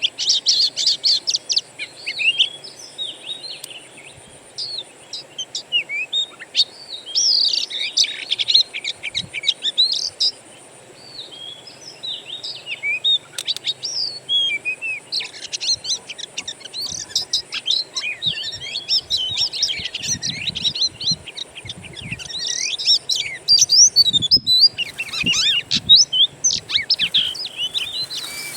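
Oriental magpie-robin (kacer) singing a fast, varied string of whistled phrases, chirps and rising and falling notes, used as a trigger song to set a captive kacer singing. The song breaks off briefly about 24 seconds in, then carries on.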